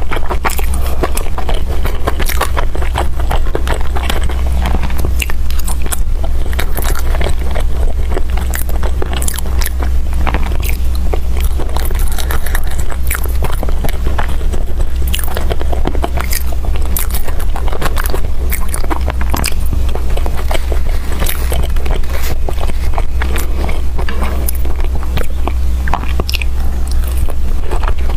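Close-miked chewing and mouth sounds of someone eating rice and braised chicken with potatoes: a dense run of small wet smacks and clicks, over a steady low hum.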